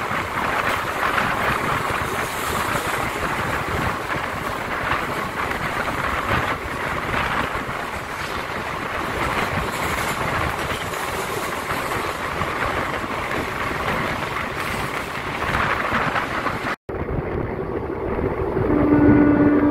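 Express passenger train running at speed: a steady rush of wind and rail noise, with wind buffeting the microphone. After a sudden cut, a steady horn note starts near the end.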